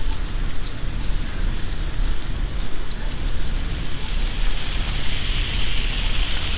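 Gusty wind buffeting the microphone with a heavy rumble over a steady hiss, the hiss brightening from about four seconds in.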